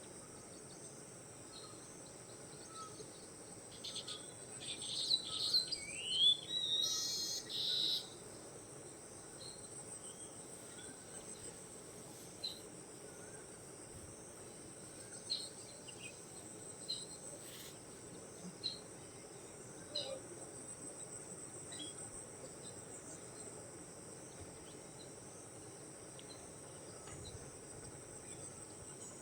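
A steady, high-pitched insect chorus outdoors. A flurry of bird calls, with one gliding call, comes between about 4 and 8 seconds in, and single short chirps follow now and then.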